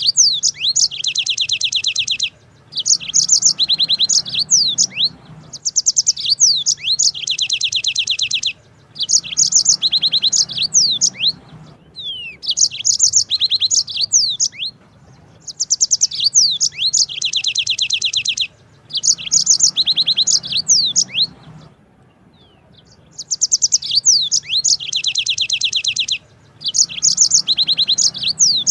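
Yellow-fronted canary (Mozambique canary) singing long trilled rolls: fast, high trills and quick sweeping notes in phrases of two to three seconds, repeated with short pauses between them.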